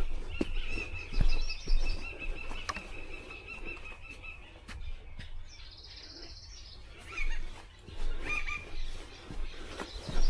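Wild birds calling: a thin, steady high tone for the first few seconds, a short rapid trill about halfway through, then a few brief chirps, over a low wind rumble and scattered rustling clicks.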